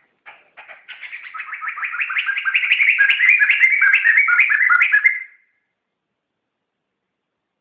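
A poksay (laughingthrush) singing a fast run of repeated two-part whistled notes, about five a second. The run builds in loudness and stops abruptly about five seconds in.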